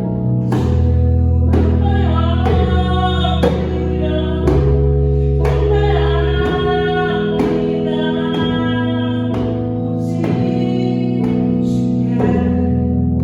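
A worship song: a singer's voice over sustained instrumental accompaniment, with regular hand-drum strikes from a djembe.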